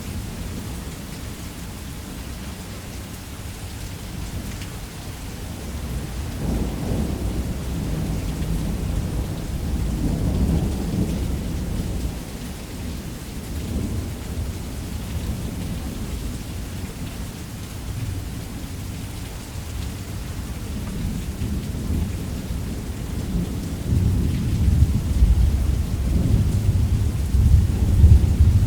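Steady heavy rain with low, rolling thunder rumbling underneath. The thunder swells about a quarter of the way in, again near the middle, and is loudest near the end.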